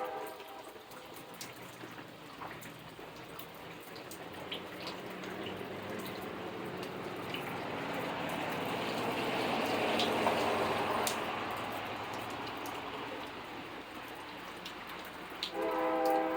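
Steady rain with scattered drips, swelling louder toward about ten seconds in and then easing off. Near the end a train horn starts to sound.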